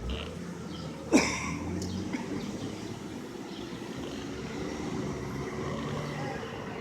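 City street traffic: a motor vehicle running nearby, with a sharp, loud sound about a second in that drops quickly in pitch.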